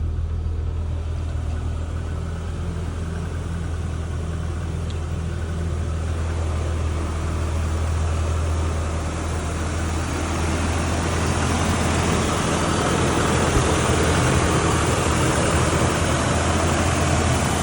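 1988 Toyota Hilux Surf engine idling steadily from a cold start, still cold. It gets brighter and a little louder in the second half.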